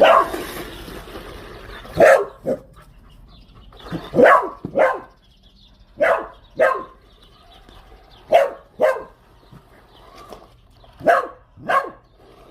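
Dog barking: about ten short barks, often in pairs, coming every second or two.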